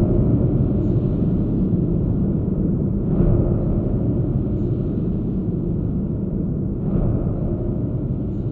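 Large steel spring heard through a contact mic: a dense, low, noisy drone, swelling up twice with soft strikes about three and a half seconds apart.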